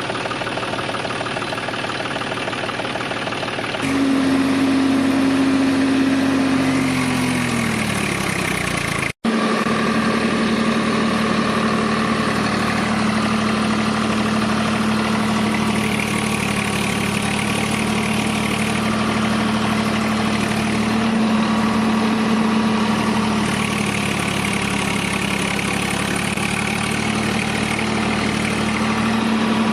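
Mini tractor's engine running steadily. About four seconds in a louder hum sets in, and its pitch sinks as it slows a few seconds later. After a brief cut-out the engine runs on at an even pitch.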